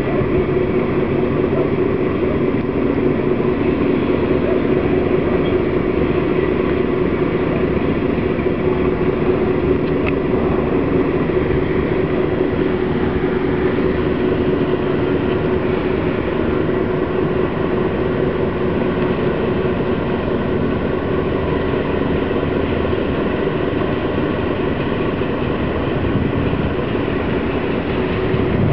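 Ferry engine running steadily: an even drone with a constant low hum.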